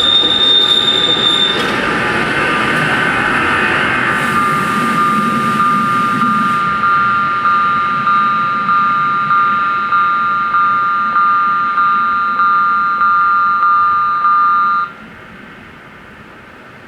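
A Núria rack railway train passing with its wheels squealing on the rails, the squeal dying away after a second or two as the train's running noise fades. Level crossing bells ring in regular strokes, a little under two a second, then stop abruptly near the end as the crossing clears.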